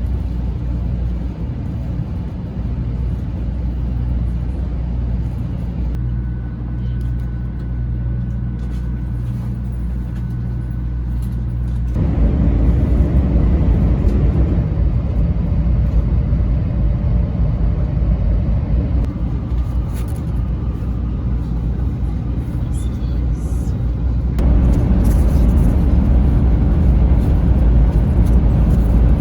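Steady low rumble of a Shinkansen bullet train running, heard from inside the passenger car. The level shifts abruptly three times.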